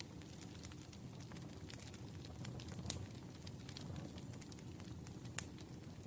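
Wood fire burning: a steady low rumble with constant small crackles and two sharper pops, about three seconds in and near the end.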